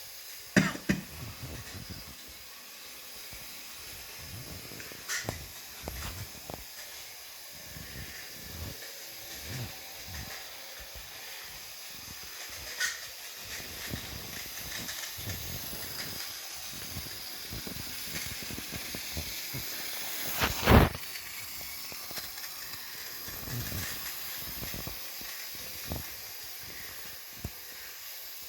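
Model railway train running on the layout: a steady hiss with irregular low clicks and knocks throughout, one much louder knock about 21 seconds in.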